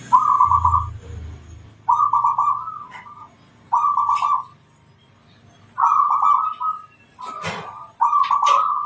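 Zebra dove (perkutut) cooing: short phrases of rapid, staccato coos repeated every one to two seconds, with a pause about halfway through and a few sharp, high, sweeping calls near the end.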